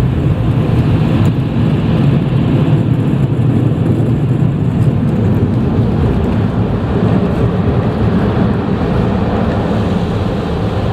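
Car wash air dryer blowers running, a loud steady rush of air heard from inside the car as it blows the water off, easing slightly near the end.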